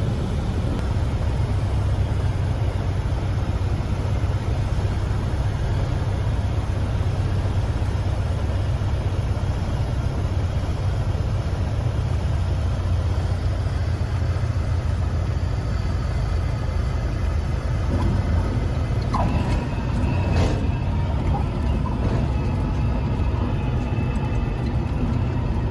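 Steady low engine drone of a running vehicle, with a short click about twenty seconds in.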